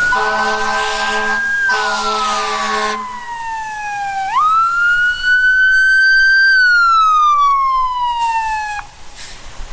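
Fire truck siren wailing: a quick rise, a slow fall, then a second rise and fall before it cuts off near the end. Two long horn blasts sound over the first half of the wail.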